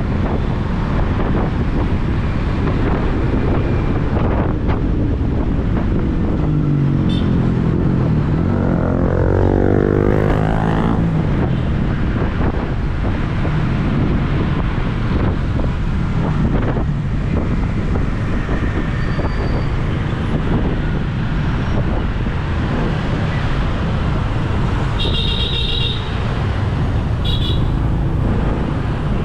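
Street traffic heard from a moving motorbike: a steady low engine and road rumble, an engine revving up with a rising pitch about a quarter of the way in, and short horn toots near the end.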